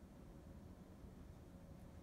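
Near silence: low room hum and hiss.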